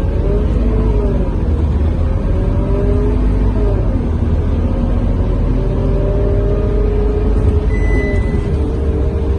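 Scania K230UB bus heard from inside while under way: a steady low diesel engine rumble with a whining tone that rises and falls as the bus speeds up and slows.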